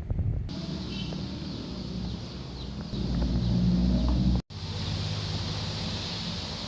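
Steady rain hiss over a low rumble that swells for about a second and a half, cut by a brief dropout about four and a half seconds in. A chicken can be heard faintly.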